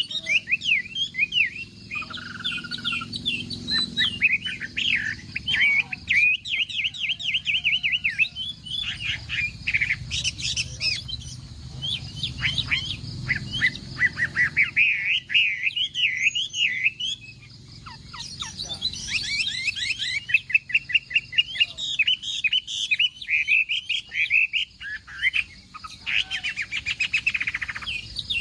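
Chinese hwamei (laughingthrush) singing a long, varied song of rapid, repeated whistled phrases, with a brief pause a little past halfway.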